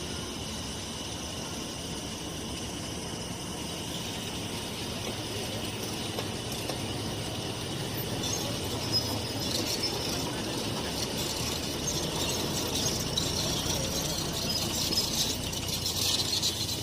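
Kangra Valley Railway narrow-gauge train running on the rails, a steady rumble that grows louder. High-pitched wheel squeal sets in about halfway through and strengthens toward the end.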